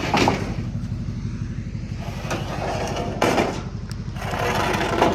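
A vehicle engine idling steadily, its exhaust giving a deep, pulsing rumble. A couple of brief louder noises sound over it, one about three seconds in and another near the end.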